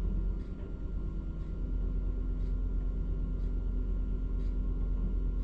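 Truck crane's engine running steadily, a low rumble with a hum.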